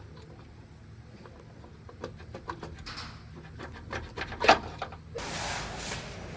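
Scattered light clicks and knocks, the loudest about four and a half seconds in. About five seconds in they give way suddenly to a steady hiss.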